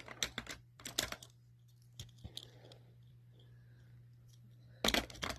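Clicks and clacks of Hot Wheels die-cast cars and plastic track pieces being handled and set in place, with a louder cluster of clacks near the end over a faint steady hum.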